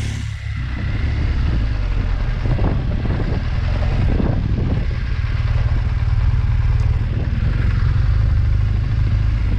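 BMW R1200GS flat-twin motorcycle riding forward at road speed, its engine running steadily under a heavy low rumble of wind on the microphone.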